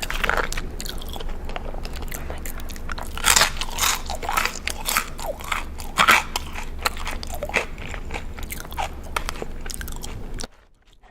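Close-miked crunchy eating: bites and chewing of crisp food make many irregular sharp crunches, which cut off suddenly near the end.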